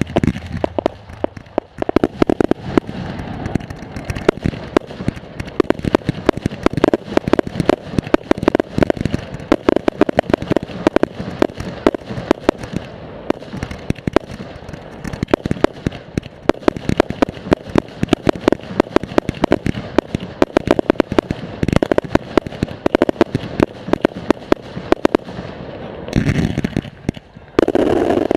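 Professional display fireworks fired from ground racks: rapid volleys of launches and bursts, a dense string of sharp bangs several a second. A louder sustained rush comes near the end.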